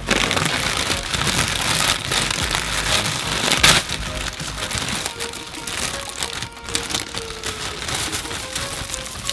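Crinkling and rustling of snack packaging over quiet background music, busiest in the first four seconds.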